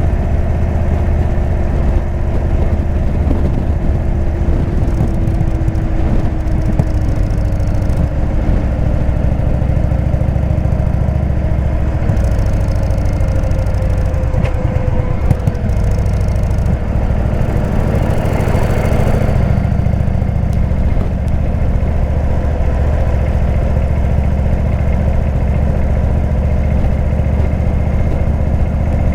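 Indian V-twin motorcycle engine with a Jekill & Hyde aftermarket exhaust, running steadily at low revs.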